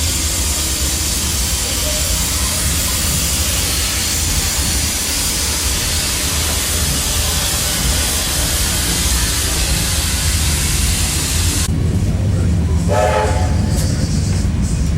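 Steam-hauled passenger train running, heard from the carriage behind the locomotive: a loud, steady rush of noise over a heavy rumble of wheels on rail. About twelve seconds in the high rushing cuts off suddenly, leaving a lower rumble, and a brief pitched tone sounds about a second later.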